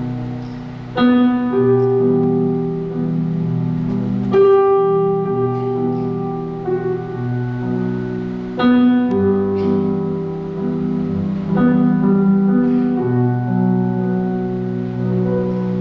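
Piano playing slow sustained chords, a new chord struck every three to four seconds and left ringing, in an instrumental passage of a slow ballad.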